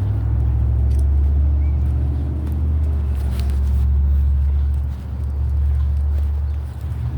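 Low, steady rumble of a motor vehicle's engine close by, dipping briefly about five seconds in.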